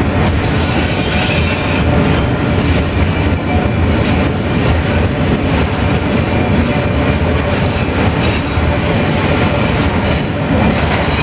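Freight train's autorack cars rolling past at a steady pace: loud continuous wheel-on-rail rumble, with thin, steady wheel squeal.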